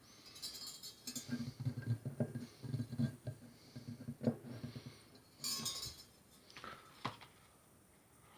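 Light metallic clinks and knocks from small metal parts being handled, with two brief hissing rushes, one near the start and one about two thirds of the way through.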